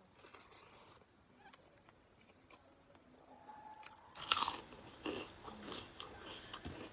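Close-up eating sounds: quiet at first, then a loud crunch about four seconds in as a mouthful of rice, fish curry and crisp potato crackers is bitten, followed by repeated crunchy chewing.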